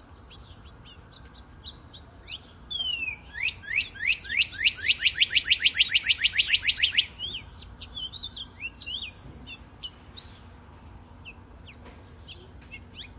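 Wild birds singing: scattered short high chirps, and from about three seconds in one bird's loud, fast trill of rapid downward-sweeping notes lasting nearly four seconds.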